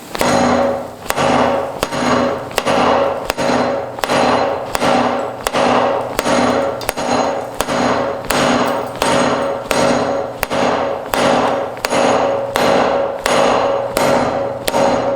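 Hand hammer beating hot rebar on a small forge-welded wrought-iron anvil with a steeled face, in a steady rhythm of about two blows a second. The anvil rings with a clear tone after each blow. The hard hammering tests whether the anvil's forge welds hold.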